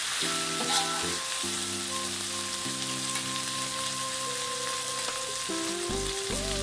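Chilli and spice paste with tomato sizzling steadily in hot oil in an aluminium wok, with a metal spatula stirring and scraping against the wok near the start.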